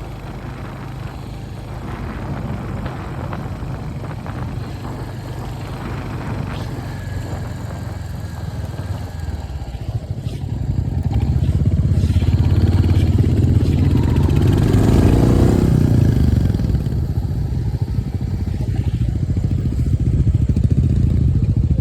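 Royal Enfield Hunter 350's single-cylinder engine running as the motorcycle is ridden, a steady rumble that grows louder about halfway through.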